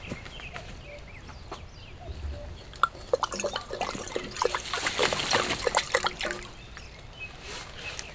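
Rainwater dripping and trickling, with scattered drops tapping sharply and a denser spell of pattering partway through.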